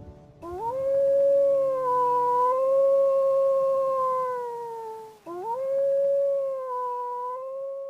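Wolf howling: two long howls, each rising quickly at the start and then held. The second begins about five seconds in.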